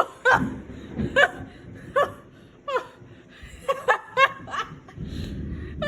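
A person laughing in short separate bursts, each falling in pitch, over the low rushing noise of storm wind and heavy rain.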